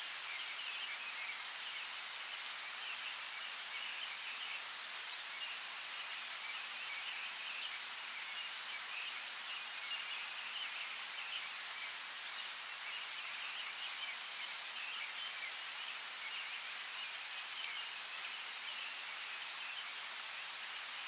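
Steady rain falling, with a few distinct drop ticks, and birds chirping faintly beneath the rain.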